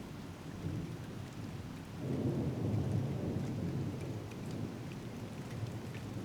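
Steady thunderstorm rain, with faint drop ticks. A low roll of thunder swells about two seconds in and fades away over the next couple of seconds.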